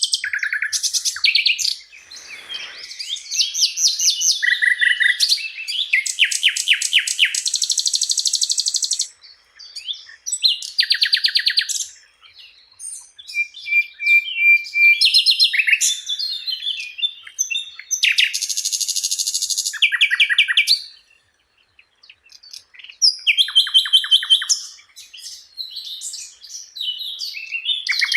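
Sikatan londo, a flycatcher, singing loud, high-pitched phrases: rapid trills of evenly repeated notes alternating with varied chattering notes, with short pauses between the phrases.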